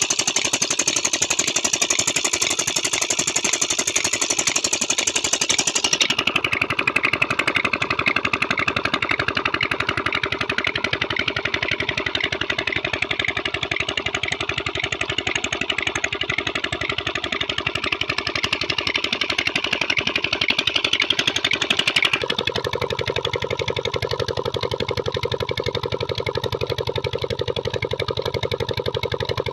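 Old stationary diesel engine driving a tubewell pump, running steadily with a fast, even beat. About six seconds in, and again about twenty-two seconds in, its sound changes, the second time turning deeper and steadier.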